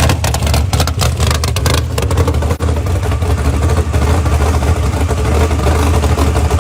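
Muscle car engine running with a steady low rumble, choppy and crackling for the first two seconds.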